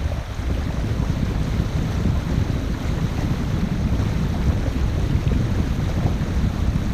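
Wind buffeting the microphone in steady low gusts, over the rush of water along the hull of a boat under way.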